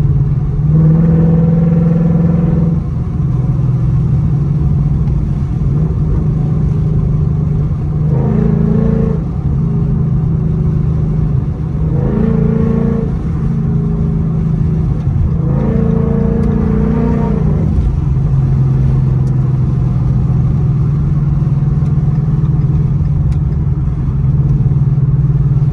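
Ford Mustang GT's 5.0-litre V8 running steadily while cruising, heard inside the cabin. Its note swells briefly about four times.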